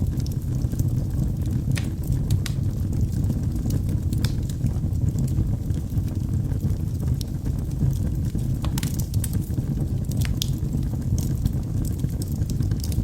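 Wood fire burning in a fireplace: a steady low rumble of flames with irregular sharp crackles and pops from the burning logs, a quick cluster of them about nine seconds in.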